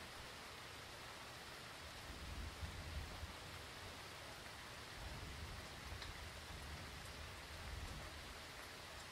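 Steady heavy rain from a hurricane, heard as a faint, even hiss, with low rumbles swelling in about two seconds in and again around five to eight seconds.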